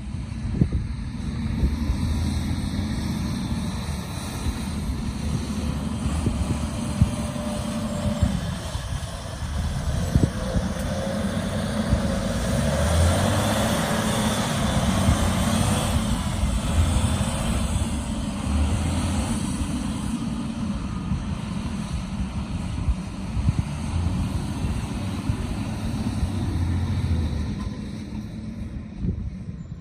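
Volvo A25F articulated dump truck's diesel engine running, with a steady low drone that swells to its loudest about halfway through and then eases off again.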